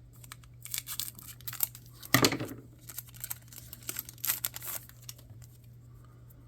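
A trading card pack wrapper being torn open and crinkled by hand, in a string of irregular rustles and crackles, the loudest about two seconds in, easing off near the end.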